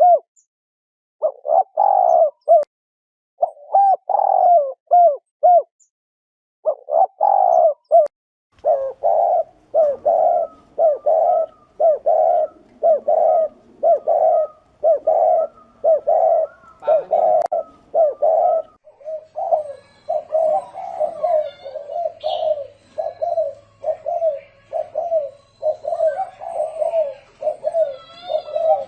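Spotted dove cooing over and over in the 'thổ rền' style, a lure call for drawing in wild doves. Low coo phrases come in short runs with brief pauses at first, then follow one another almost without a break from about a third of the way in.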